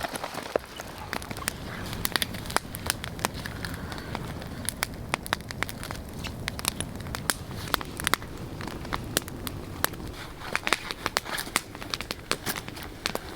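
Wood fire crackling, with many sharp, irregular pops and snaps over a steady low rush.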